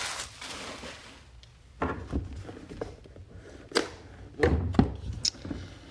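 Box and packaging being handled and opened: scattered light knocks, thumps and a few sharp clicks.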